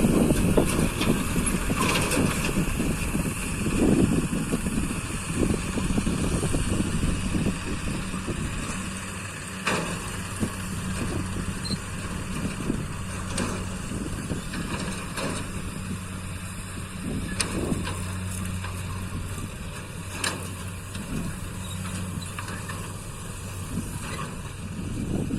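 A vehicle engine running steadily at a constant speed, with scattered clicks and knocks over it.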